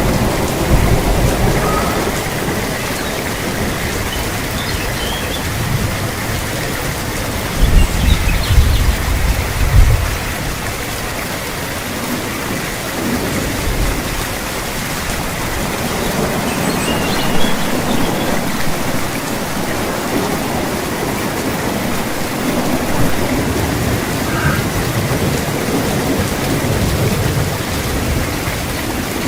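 Steady heavy rain falling, with rolls of thunder; the loudest rumble comes about eight seconds in and lasts a couple of seconds, and fainter low rumbles swell later.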